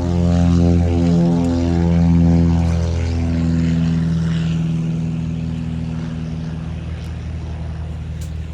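Airplane taking off, its engine at full power making a steady hum that is loudest in the first three seconds, then fading as the plane climbs away.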